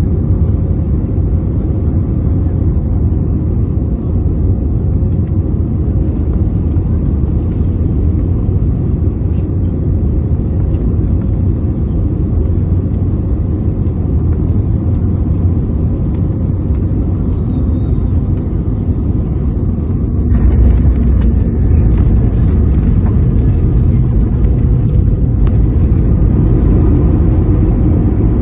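Airliner cabin noise during landing: a steady low rumble of jet engines and airflow, which becomes louder and fuller about twenty seconds in.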